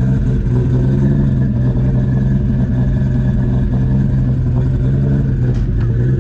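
A car engine idling steadily, with an even low hum that holds the same pitch throughout.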